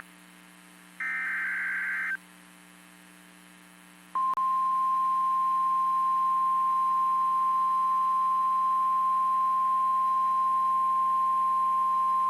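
NOAA Weather Radio alert signalling: a short buzzing SAME digital header burst about a second in, then, after a pause, the steady 1050 Hz warning alarm tone starting about four seconds in and holding. The sequence marks a broadcast warning, here a Severe Thunderstorm Warning, and switches on alert-ready weather radio receivers.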